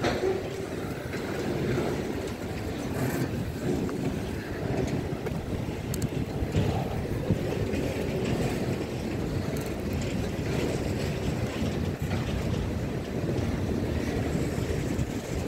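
Freight train of autorack cars rolling past: a steady rumble of steel wheels on the rails, with occasional clicks.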